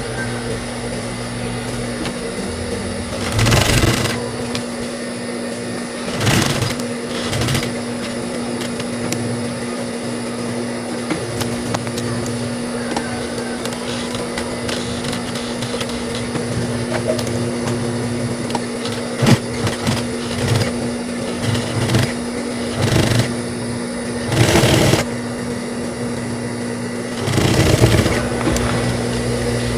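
High-speed sewing machine running: a steady motor hum, with several short bursts of stitching as the zipper is sewn onto the shorts.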